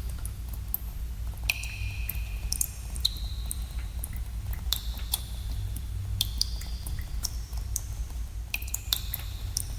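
Water drops falling in a cave, dripping irregularly several times a second. Some drops plink with a clear ringing tone that lasts up to about a second, over a steady low rumble.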